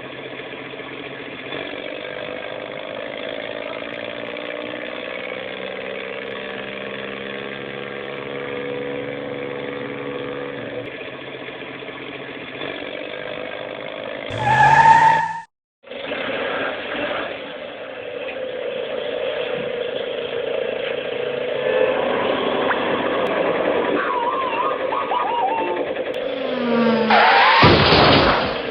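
A vehicle engine runs steadily with an even hum. Just before halfway a short, loud sound effect with a wavering tone cuts in, followed by a moment of silence. Near the end there is a louder noisy burst with sweeping tones.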